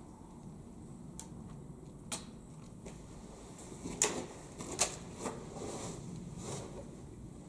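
Footsteps and scuffs on farmyard ground: a handful of uneven short steps, the loudest about four and five seconds in.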